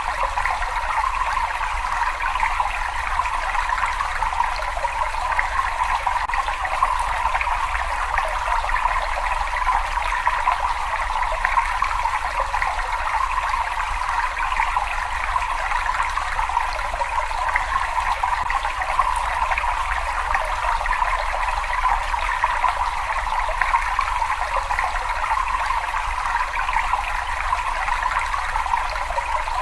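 Water running and trickling steadily in a cave, an even, unbroken splashing rush.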